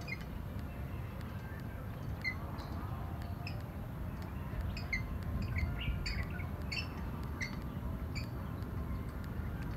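Small birds chirping in short, scattered calls, busiest in the middle, over a steady low rumble.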